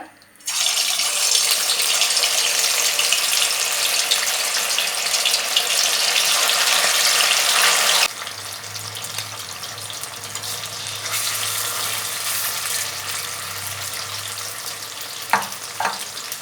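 Marinated chicken pieces sizzling loudly in hot oil in a wok, starting suddenly as they go into the oil. About eight seconds in the sizzle drops to a softer, steady frying with a low hum beneath it, and two light clicks come near the end.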